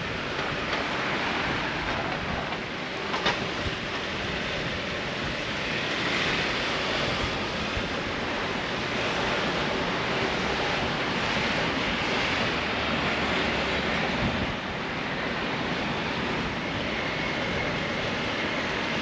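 Steady city traffic noise, an even rush of passing vehicles, with a sharp click about three seconds in.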